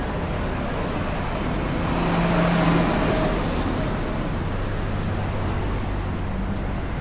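City street traffic in the rain: a vehicle passing on the wet road, its tyre hiss swelling to a peak about two to three seconds in and then fading, over a steady wash of rain and road noise.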